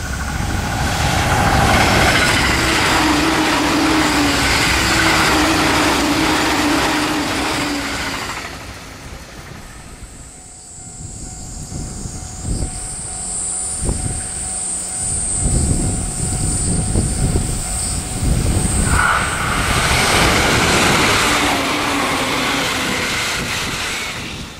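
E657-series electric limited express passing at speed: a loud rush of wheels on rail with a few steady tones for about eight seconds, then dying away. A second loud rush of passing-train noise swells up and fades near the end.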